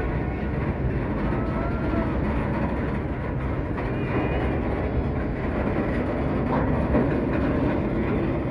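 Canadian Pacific Holiday Train on the move, a steady rumble of the locomotive and rail cars running on the track.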